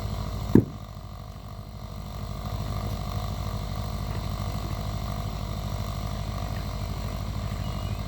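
An engine running steadily with a fast, even beat, and one sharp knock about half a second in, after which it is quieter for a second or so.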